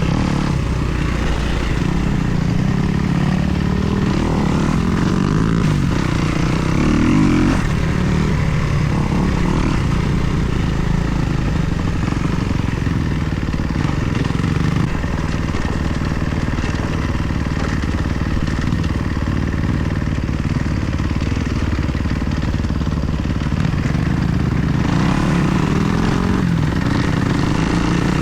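2024 Kawasaki KX250's four-stroke single-cylinder engine running under way, its pitch rising and falling with the throttle, with a rising rev about seven seconds in and again near the end.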